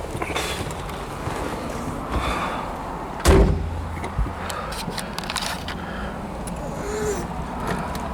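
A car door is shut with a single heavy slam about three seconds in, followed by a few light clicks and rattles.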